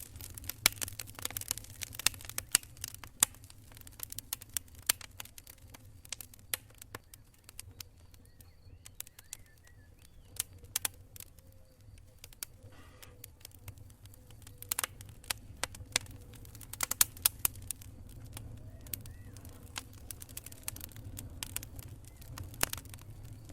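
Campfire of burning wood crackling, with irregular sharp pops and snaps that come thick at first, thin out in the middle and pick up again later, over a steady low rumble.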